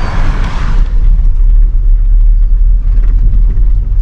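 Loud, steady low rumble, with a hiss over it that fades out about a second in.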